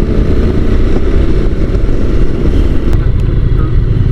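Honda NC750 DCT motorcycle being ridden, its parallel-twin engine running under steady, heavy wind rush on the helmet microphone.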